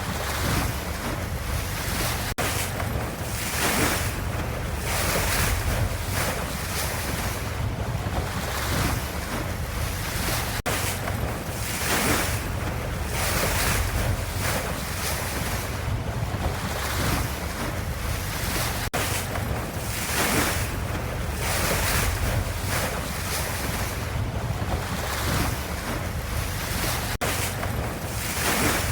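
Ocean waves washing in a steady rushing noise that swells and ebbs every second or two over a deep low rumble.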